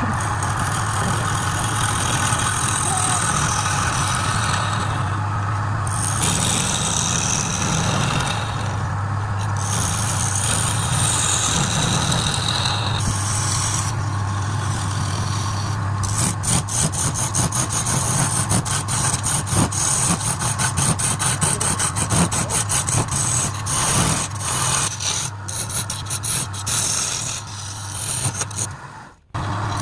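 Wood lathe running with a steady motor hum while a turning tool cuts the spinning wood, giving a scraping hiss. From about halfway on come rapid irregular clicks and ticks.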